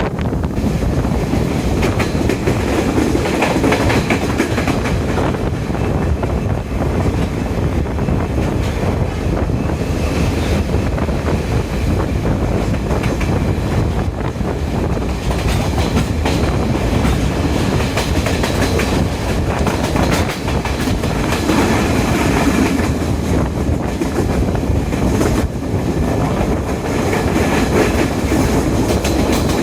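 Diesel multiple-unit train running along the line, a steady loud rumble of wheels and carriages with irregular clicks and clatter of the wheels over the rails.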